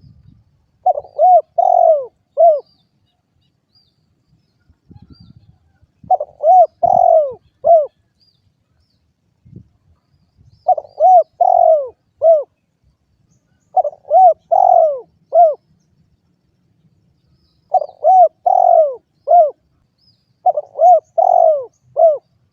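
Spotted dove (derkuku) cooing: six repeated phrases of four or five short, hollow rising-and-falling coos, one phrase about every three and a half seconds.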